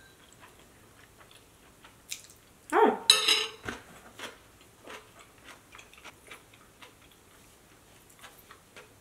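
Mouth-close chewing of food, with small wet clicks throughout. About three seconds in, a brief voiced hum comes just before a metal spoon clinks sharply and rings against a ceramic bowl as it is set down.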